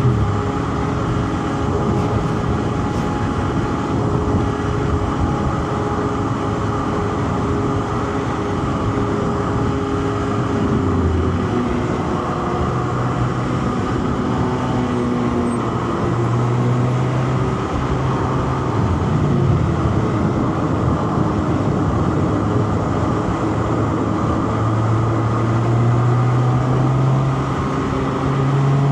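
Inline-four petrol car engine pulling up a mountain road, its note shifting up and down with throttle and gear changes over steady tyre and road noise.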